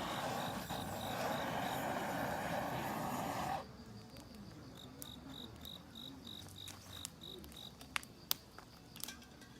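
Insect chirping in short, evenly spaced high pulses, about three a second, at first under a louder steady rushing noise that cuts off abruptly about three and a half seconds in. After that the chirping stands out, with a few sharp clicks near the end.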